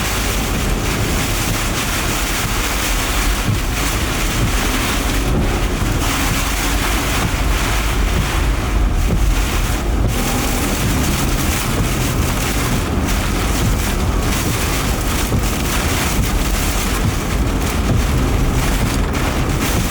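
Strong thunderstorm wind buffeting the microphone: a loud, steady rush with a gusting low rumble.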